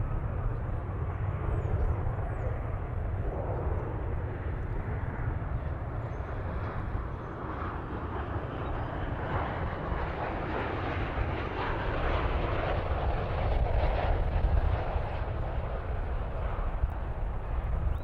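Jet airliner's engines heard passing, a steady rumbling noise that swells to its loudest a little past halfway and then eases.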